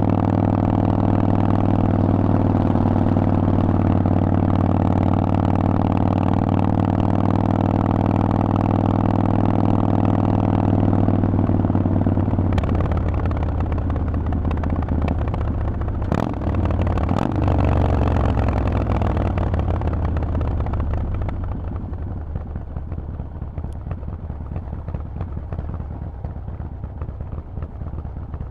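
Harley-Davidson Forty-Eight's air-cooled V-twin through Vance & Hines pipes, running at a steady speed, then dropping in pitch as the throttle is rolled off and the bike slows. There are two sharp clicks midway, and the engine settles to a lower, quieter run near the end.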